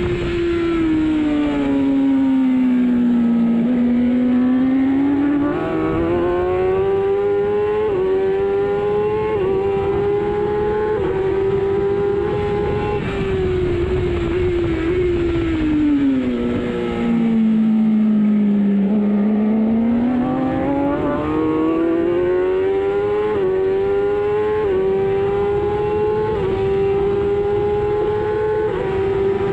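Racing superbike engine at race pace, heard from on board: twice the engine note sinks as the rider slows for a corner, then climbs again through a string of quick upshifts, each marked by a short drop in pitch.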